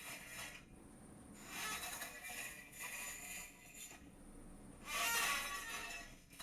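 A chair creaking in a series of drawn-out creaks and squeaks, a few short ones followed by the loudest, longest creak about five seconds in.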